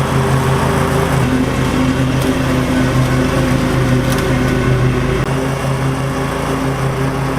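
Kohler Command V-twin engine of a Cub Cadet lawn tractor running steadily under way, with a slight drop in its low rumble about five seconds in.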